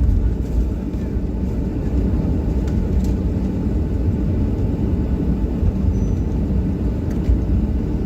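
Steady low rumble inside the cabin of a Boeing 737-800 taxiing after landing, its CFM56-7B engines at idle.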